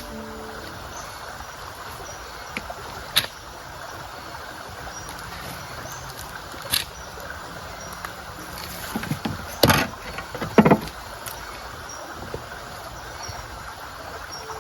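Steady outdoor background hiss broken by a few sharp knocks or taps, the loudest cluster about ten seconds in.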